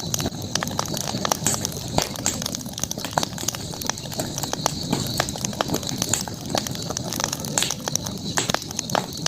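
Campfire burning, crackling with irregular sharp pops over a low rumble of flame, with a steady high-pitched hiss behind it.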